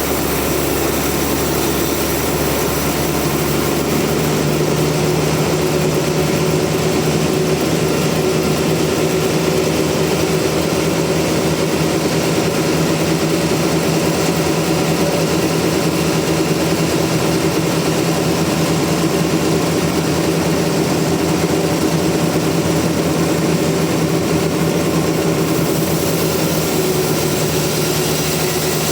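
Sawmill's engine running steadily under continuous power, a constant machine drone with no breaks.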